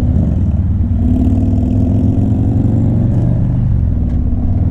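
Harley-Davidson V-twin motorcycle engine running on the road. Its pitch rises a little over a couple of seconds, then drops about three seconds in.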